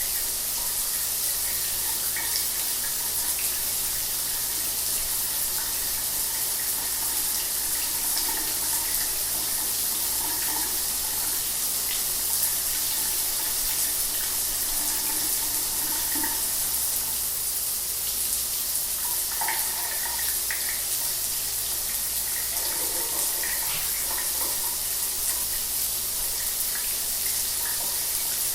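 Shower water running steadily, an even hiss of spray with small splashes scattered through it.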